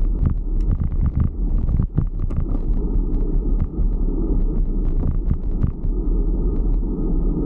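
Fixed-gear bicycle on the move over a road: a steady low rumble with many small clicks and rattles scattered through it.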